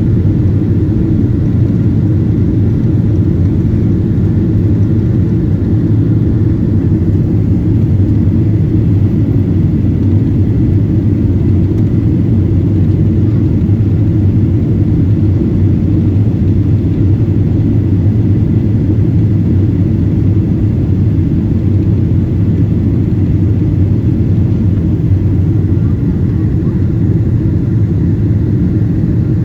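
Steady cabin roar inside a Boeing 777-200 airliner on its descent: engine and airflow noise, deep and unchanging.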